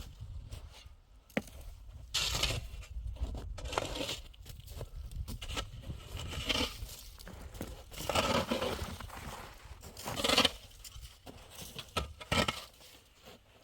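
Irregular scraping and crunching strokes, uneven and a second or two apart, with a few sharp clicks and a low rumble underneath.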